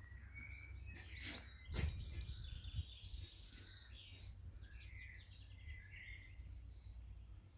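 Birds chirping and twittering, many short calls throughout, over a steady low rumble. A couple of sharp knocks come a little under two seconds in.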